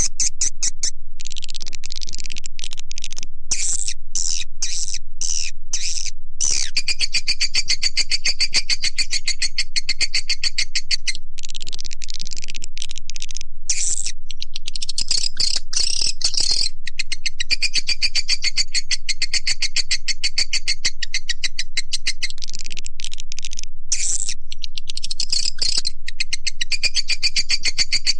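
Recorded swiftlet call sound: a dense, fast twittering of high chirps from edible-nest swiftlets, with a few short breaks. It is the lure call that swiftlet farmers play to draw swiftlets into a nesting house.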